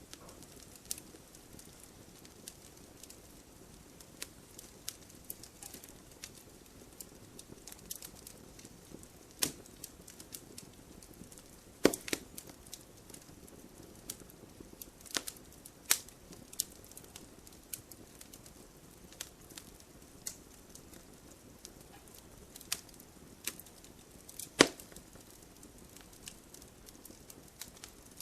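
Wood fire in a wood-burning stove crackling: irregular sharp pops and snaps of burning logs over a low steady hiss, with two louder pops about twelve seconds in and near the end.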